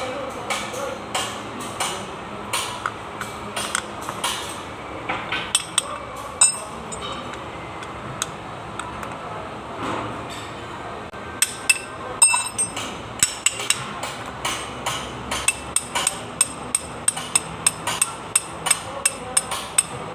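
Metal tools tapping and clinking on engine parts during an engine teardown. The taps are irregular at first, then come faster and sharper from about halfway, each with a short metallic ring.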